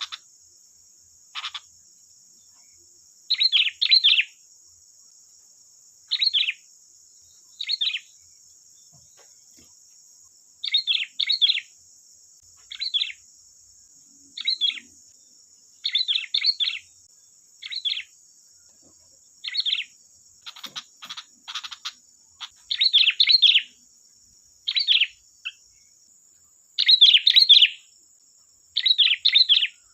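Sooty-headed bulbul (kutilang) calling in short bright chirpy phrases, often two or three notes together, repeated every second or two, with a few scratchier notes about two-thirds of the way in. A steady high-pitched buzz runs underneath.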